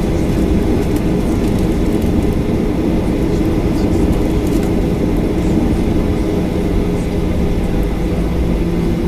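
Boeing 737-800's CFM56-7B jet engines running at a steady power, heard from inside the passenger cabin as a dense, even rumble with a steady hum.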